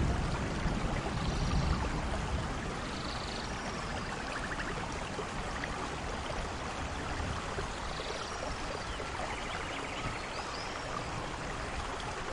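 Steady rainfall during a thunderstorm. Thunder rumble dies away in the first couple of seconds, and a few short high chirps and trills sound through the rain.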